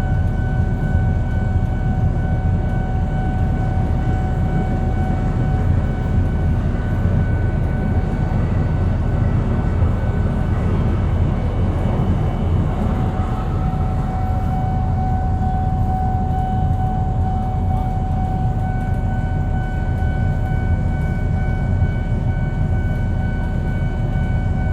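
Train passing through a level crossing: a continuous heavy low rumble that swells around the middle, with a steady high tone and its overtones running over it.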